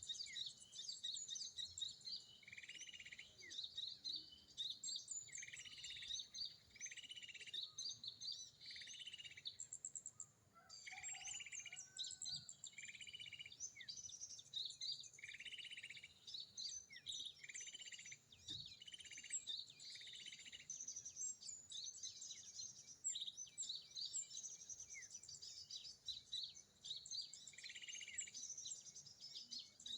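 Sunbirds (sogon) calling: a dense, high twittering of quick chirps, with a lower buzzy note repeated over and over, at times about once a second, and a short lull about ten seconds in.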